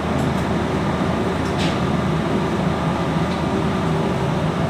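Steady machinery noise with a low hum, and one brief tick about one and a half seconds in.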